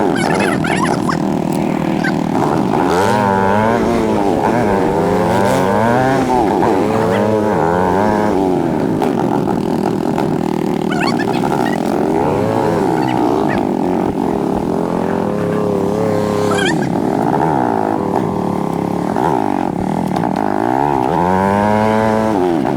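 ATV engine running hard on a trail ride, its pitch rising and falling again and again with the throttle.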